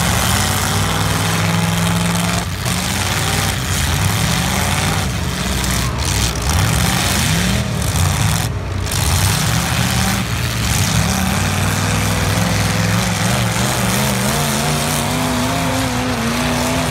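Several demolition derby cars' engines revving hard at once, loud and continuous, their pitch rising and falling as the drivers floor them and back off.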